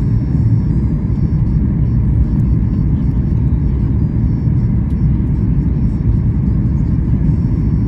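Steady low rumble inside the cabin of a Boeing 737 MAX 8 airliner: engine and airflow noise with no marked change in pitch or level.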